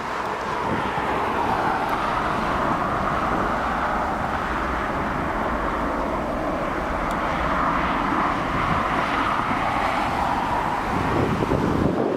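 Airbus A330-300's two General Electric CF6-80 turbofans at takeoff thrust: a continuous jet roar with a rumbling low end and a broad hiss strongest in the middle range, swelling gently.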